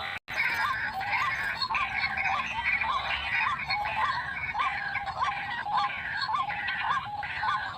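White-breasted waterhen (ruak-ruak) calling: a short rising note repeated about twice a second, steady and unbroken.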